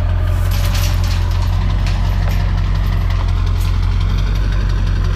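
Pickup truck engine running steadily at low speed, with light clicks and rattles over it.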